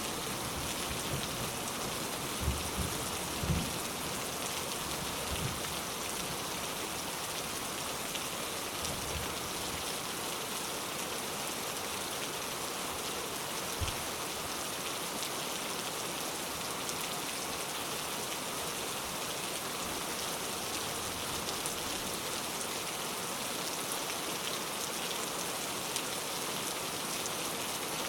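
Steady, even rain falling and pattering on surfaces, with no thunder. A few brief low knocks sound in the first few seconds and once near the middle.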